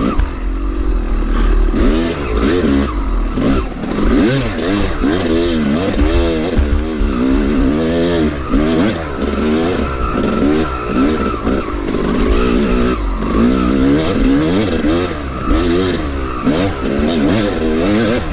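Two-stroke dirt bike engine revving up and down over and over as the rider works the throttle over rough ground, with scattered knocks and clatter.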